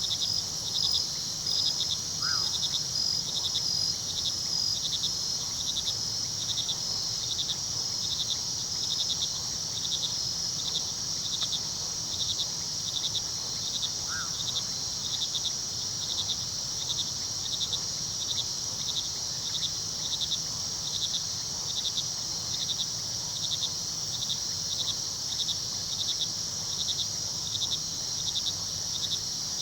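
Night crickets: a steady high trill with another cricket chirping regularly about twice a second, over a low rush of running river water. Two brief, faint calls stand out, about two seconds in and again near fourteen seconds.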